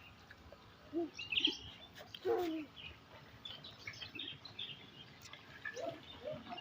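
Birds chirping repeatedly in many short, high calls, with a few louder, lower calls in the first half.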